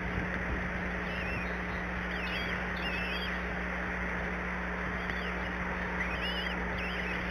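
Short, high, wavering bird calls, repeated in small clusters several times, over a steady hiss and a low constant hum.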